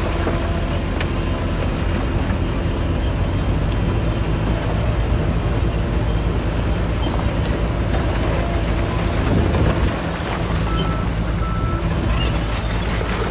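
Heavy diesel engine of earthmoving machinery (bulldozer or dump truck) running steadily with a deep rumble. A few short reversing-alarm beeps sound near the end.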